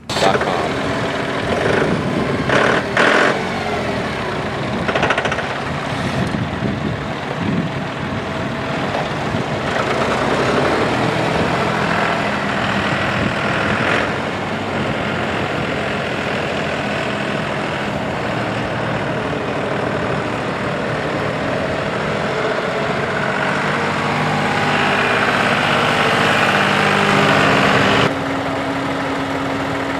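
John Deere 5103 tractor's three-cylinder turbocharged diesel engine running, with a few knocks in the first few seconds. Its sound shifts a few times and settles a little quieter about two seconds before the end.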